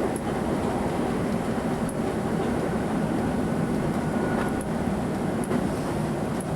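British Rail 2EPB electric multiple unit running, heard from on board: a steady rumble and drone from its old, worn English Electric traction motors and wheels on the rails, with a few faint clicks.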